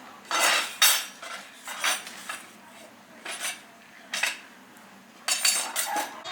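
Metal objects clinking and scraping against each other in several separate strokes, with short metallic ringing.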